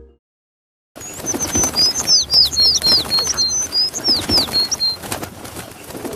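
Small bird chirping a quick run of high, short, downward-slurred notes over outdoor background noise, with scattered clicks and knocks; it starts about a second in after a moment of silence.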